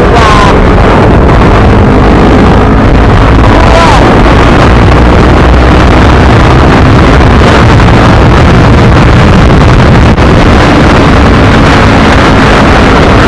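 Heavy wind buffeting the microphone, loud enough to overload it, with a vehicle engine running steadily underneath.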